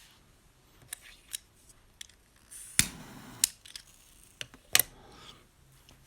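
Paintbrush work on a textured faux wood-grain surface: short scraping brush strokes mixed with several sharp clicks and knocks, the loudest about three seconds in.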